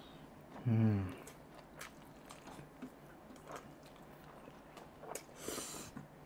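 Close mouth sounds of people chewing saucy chicken and noodles eaten by hand: soft wet clicks and smacks. About a second in there is a short vocal hum falling in pitch, and near the end a brief hiss of breath.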